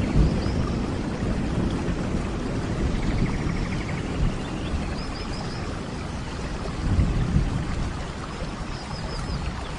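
Steady rain falling, with low rumbles of thunder swelling near the start and again about seven seconds in, and a few faint high chirps.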